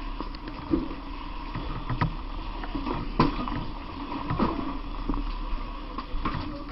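A steady mechanical drone with scattered knocks and clatters, several of them about a second apart, from firefighters working inside a burning building.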